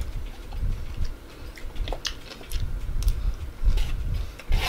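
Close-miked chewing of a forkful of cheesy noodles: soft, irregular chewing pulses with wet mouth clicks scattered through. The sharpest click comes near the end.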